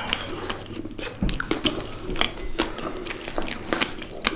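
A person biting and chewing crunchy food, with many irregular crackling crunches.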